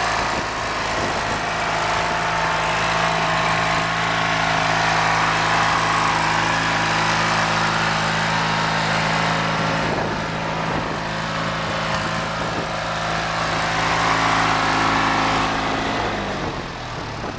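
Craftsman YTV-16 yard tractor's engine running steadily, then slowing with falling pitch and shutting off near the end.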